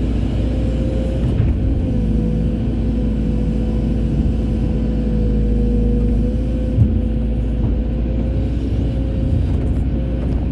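Hydraulic excavator's diesel engine running steadily under load, with a constant whine over the low rumble. A single brief knock comes about two-thirds of the way through.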